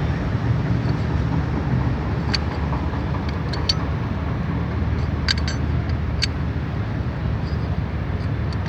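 Steady low rumble of road traffic, with a few sharp metallic clinks as the Bajaj Pulsar 135's clutch plates and clutch hub are handled and fitted together.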